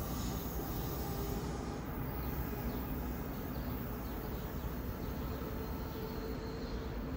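NJ Transit electric commuter train moving away along the track: a steady low rumble of wheels on rail.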